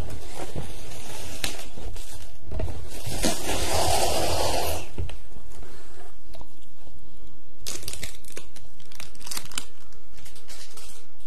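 Close-miked ASMR trigger sounds: crinkling, scratching and tapping right against the microphone, with a longer rushing rustle about three to five seconds in and a run of quick clicks and scratches near the end.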